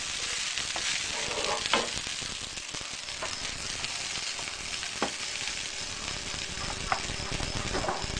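Nasi goreng (Javanese fried rice) sizzling as it is stir-fried in a pan, a steady hiss with a few sharp knocks of the spatula against the pan.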